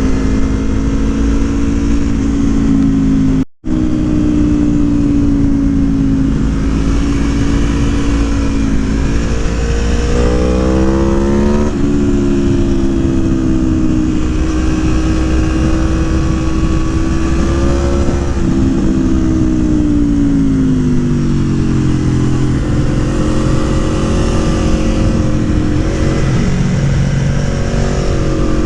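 Aprilia Tuono motorcycle with a Gabro Racing Stage 3-tuned engine, under way. Its revs climb about ten seconds in and drop sharply at a gear change, then hold steady and fall away around twenty seconds in as it slows. The sound drops out for an instant near four seconds in.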